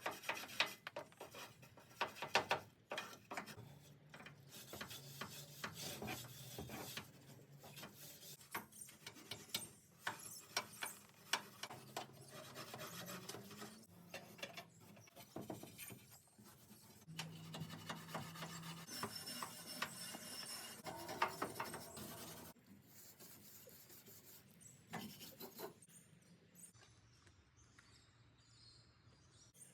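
Irregular hand scraping and rubbing on the caravan's metal chassis, many short strokes one after another, stopping about 22 seconds in.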